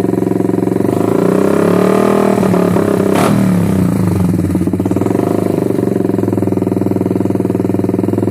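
Motorcycle engine blipped by the throttle through an aftermarket Termignoni exhaust, with a fierce, bassy note. It revs up twice, with a sharp crack about three seconds in.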